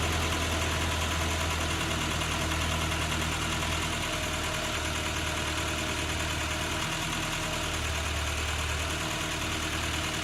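Ford Ranger four-cylinder engine idling steadily with a freshly installed remanufactured cylinder head, its lifters really noisy; the owner hopes they will quiet down after it runs a while.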